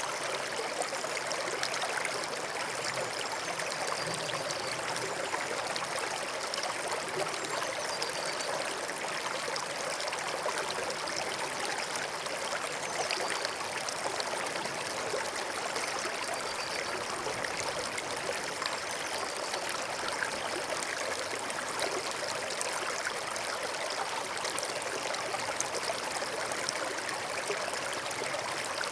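Stream flowing steadily: continuous babbling and trickling of running water.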